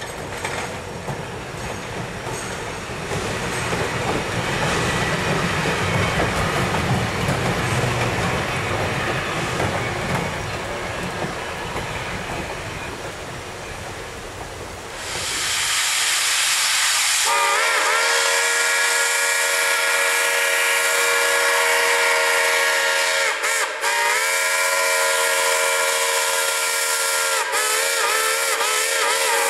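Railroad cars rolling across a bridge, the wheels clattering on the rails and fading as the train passes. Then, about seventeen seconds in, a steam locomotive's whistle blows a chord of several tones, held long, with two brief dips.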